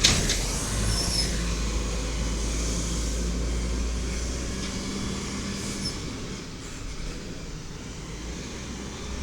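Diesel engine of a 1993 WhiteGMC automated side-loader garbage truck running with a low rumble that gradually gets fainter, after a sharp clunk at the very start. Two faint, brief high squeaks come about a second in and again near six seconds.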